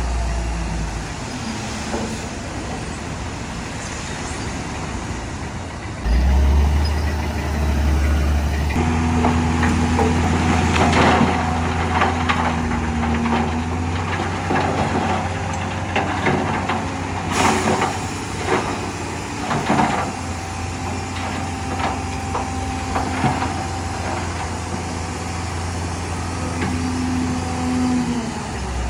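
Diesel engines of heavy earthmoving machinery running, getting louder about six seconds in, with scattered metal clanks and knocks in the middle and one short hiss of air.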